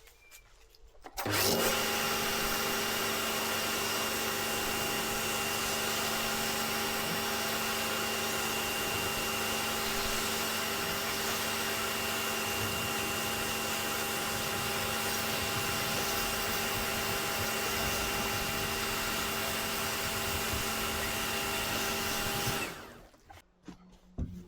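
An electric motor-driven machine runs at a steady speed. It switches on about a second in and cuts off near the end.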